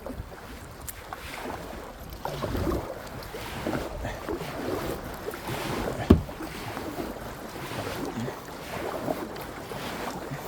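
Kayak paddle strokes in the water, about one a second, with wind on the microphone and a single sharp knock about six seconds in.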